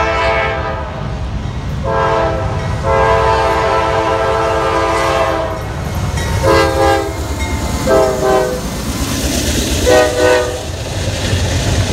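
Locomotive horn sounding a series of blasts over the rumble of a passing train: a short blast, then a long one of nearly three seconds, then three short blasts. The steady rolling rumble of the train continues underneath.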